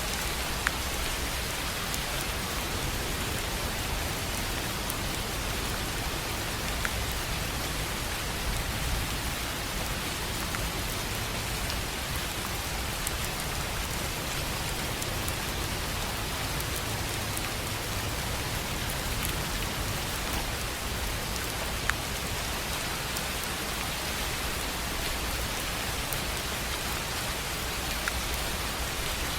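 Steady rain on a tin roof: an even hiss of rainfall with a few single, louder drops standing out now and then.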